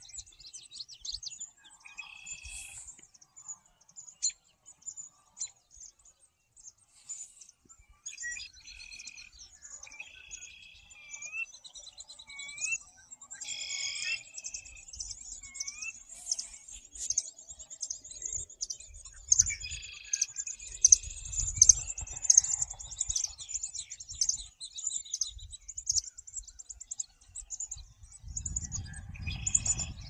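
Many birds singing and chirping at once, a busy mix of overlapping calls and songs. A run of short, rising whistled notes comes through in the middle, and low rumbles come in now and then in the second half.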